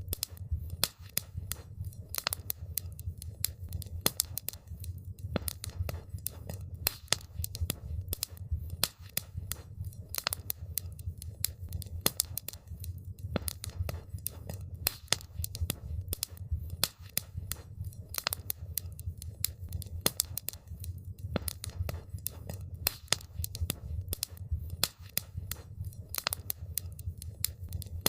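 Wood campfire crackling: many sharp, irregular pops and snaps over a steady low rumble of the flames.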